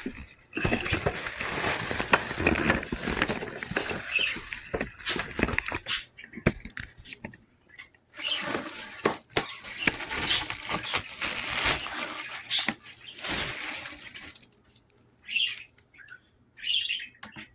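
Plastic packaging wrap crinkling and rustling in irregular bursts as it is pulled off a new vacuum cleaner, with scattered clicks and knocks.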